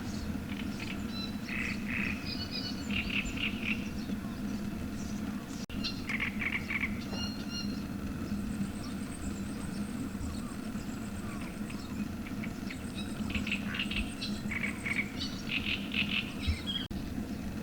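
Small birds chirping in short scattered bursts over a steady low hum, with a thin high whine in the middle part.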